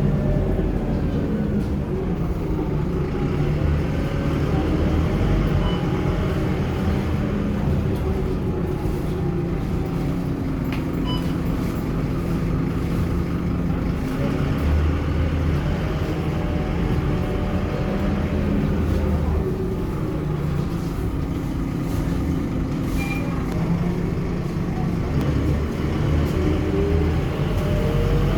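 Scania K230UB city bus under way: its diesel engine rises and falls in pitch several times as it accelerates and drops back, over steady road noise.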